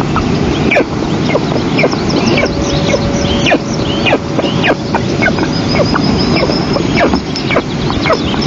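Eastern imperial eagle chicks begging for food: rapid, high, downward-slurred chirps repeating several times a second, over a steady low rush of noise.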